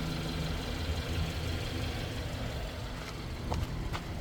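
Car engine idling steadily, with a few faint clicks near the end.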